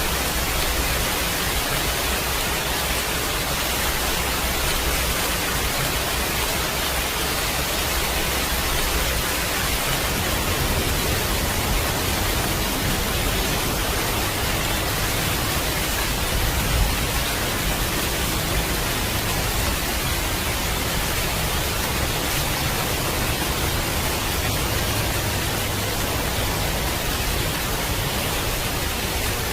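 Steady rain falling as a dense, even hiss, with a low rumble underneath that changes about ten seconds in.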